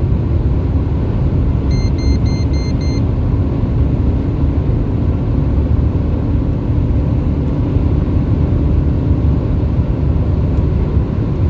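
Lada Granta FL's engine pulling hard under full throttle in fifth gear, heard from inside the cabin as a steady low drone mixed with road and wind noise. It is not strongly whining, with the catalytic converter removed and the car chip-tuned. About two seconds in, five quick electronic beeps sound.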